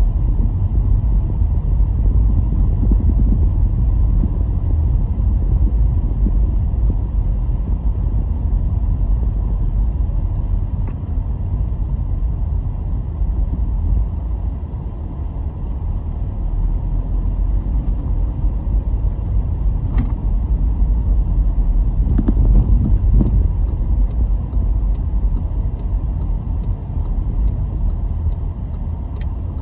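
A car driving along a road: a steady low rumble of engine and tyres that eases slightly about halfway through and swells again later, with a few faint clicks.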